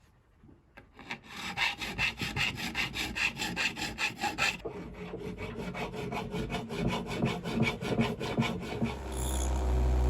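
Sandpaper rubbed by hand on the guitar's wood in quick, even back-and-forth strokes, about six a second, stripping or smoothing it for refinishing. The strokes are strongest in the first half, and a steady low hum comes in near the end.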